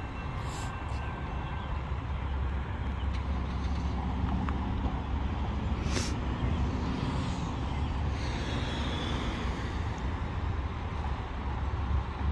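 Road traffic passing: a steady low rumble of cars and trucks, with a sharp click about six seconds in.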